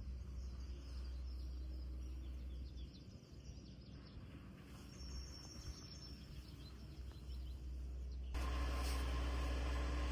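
Faint bird chirps over a low outdoor rumble, like wind on the microphone. About eight seconds in, it switches abruptly to a louder, steady mechanical hum.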